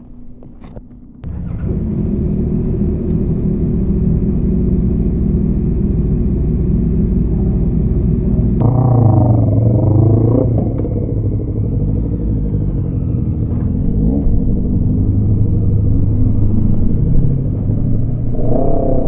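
Yamaha MT-25 parallel-twin motorcycle engine under way, coming in loudly after a quiet first second with a steady rumble. The revs swing sharply about nine seconds in and again near the end.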